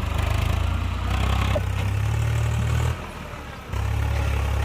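Diesel tractor engine running steadily with a low, even hum that steps up in pitch about two seconds in. It drops away suddenly about three seconds in and is back less than a second later.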